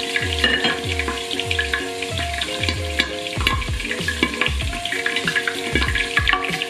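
Meatballs frying in oil in a covered pan, crackling and spitting steadily, over background music with a steady bass beat.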